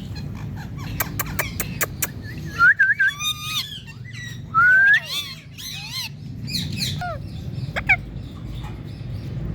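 Indian ringneck parakeet chirping and whistling, with a quick run of sharp clicks about a second in and short squawky calls; the loudest sound is a rising whistle about four and a half seconds in.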